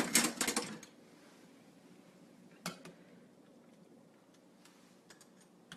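A pot of poaching chicken moved on the stovetop: a short clatter of metal clicks and knocks, then quiet with a single knock about two and a half seconds in and a few faint clicks near the end.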